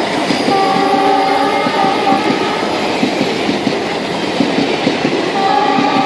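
Indian Railways train running along the track with a steady rumble and wheel clatter; its horn sounds a held blast of about a second and a half near the start, and a second blast begins near the end.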